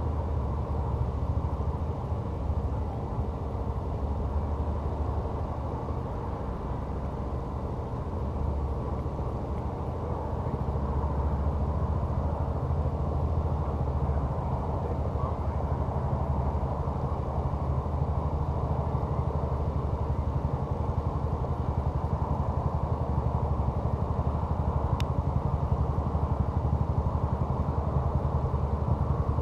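An engine running steadily with a low hum, growing a little louder after about ten seconds.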